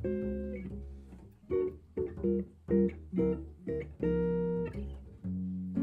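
Jazz guitar playing a run of plucked chords and single notes, with bass notes underneath.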